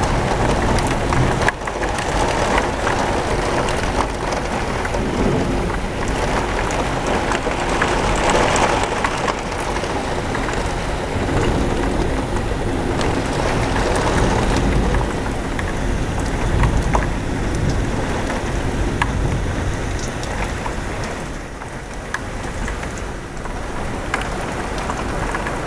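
Heavy thunderstorm rain pouring steadily, with thunder rumbling low underneath and swelling a couple of times.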